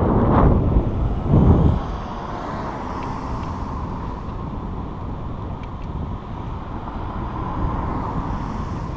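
Wind buffeting the microphone of a camera on a moving bicycle: two strong rumbling gusts in the first two seconds, then a steady rush of wind and rolling noise.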